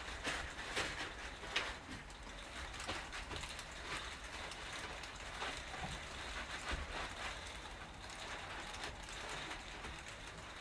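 Picnic blanket being handled and tucked into a wooden sofa frame: irregular crackly rustling with scattered light knocks.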